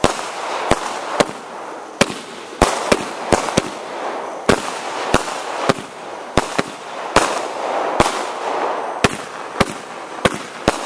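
Multi-shot consumer fireworks cake firing aerial bursts in quick succession: about twenty sharp bangs at irregular intervals, roughly two a second, with a steady crackle between them.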